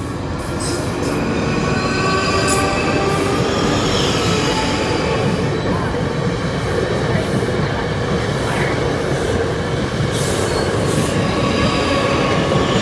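Two coupled Class 458 electric multiple units pass close by, building up over the first two seconds to a steady rumble of wheels on rail with thin whining tones. Wheelsets clack over the rail joints a few times near the start and again near the end.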